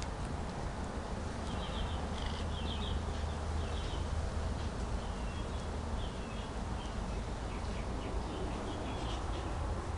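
Small birds chirping in the background, short high chirps in quick little clusters over and over, above a steady low hum.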